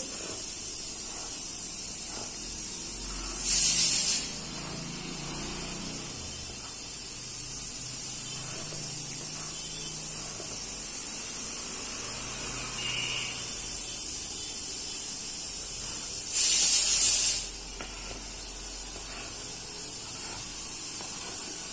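Steady hiss, with two brief louder scratchy rubs, about four and about sixteen seconds in, from drawing on paper.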